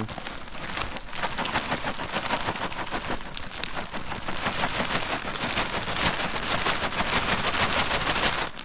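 Sunflower seeds being scattered onto the ground as deer bait: a dense, irregular patter of many small hits.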